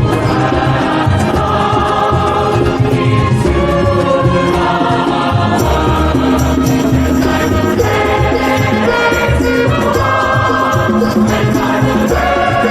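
Church music with choral singing over a steady bass line.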